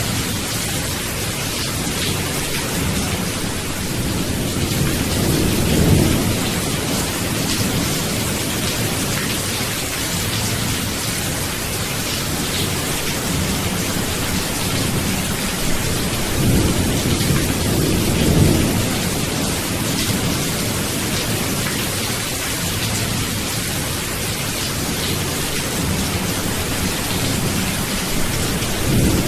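Steady heavy rain hiss with rolls of thunder: low rumbles swell about five seconds in and again for a few seconds past the middle.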